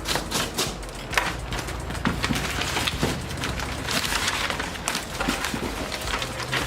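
Packaging being handled and unwrapped: quick clicks, crackles and rustles of paper and plastic, with a denser rustle about four seconds in.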